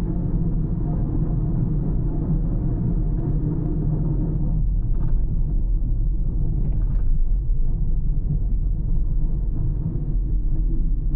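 Car driving along a road: a steady low engine and tyre rumble. About four and a half seconds in the engine's even hum fades back, leaving mostly road rumble with a few faint ticks.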